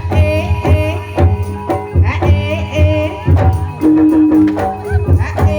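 Ebeg accompaniment music: regular hand-drum strokes, several a second, over ringing pitched percussion, with a long held note about four seconds in.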